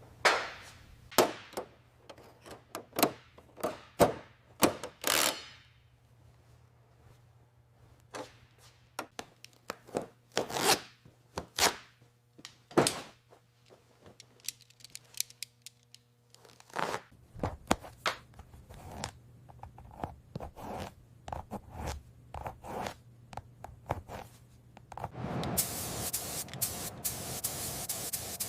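Workshop handling sounds: a long series of sharp knocks, taps and short scrapes of tools and parts being worked, irregular and spaced out. Near the end a steady hiss starts and continues.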